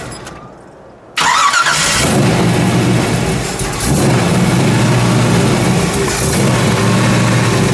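A 383 cubic-inch stroker V8 in a 1932 Ford three-window hot rod. The engine sound fades away over the first second, then the engine fires again with a quick rising rev about a second in and settles into a steady idle.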